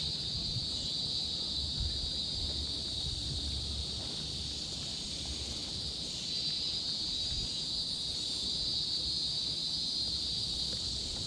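Insect chorus droning steadily at a high pitch, swelling slightly about halfway through, over a low rumble of wind or handling on the microphone.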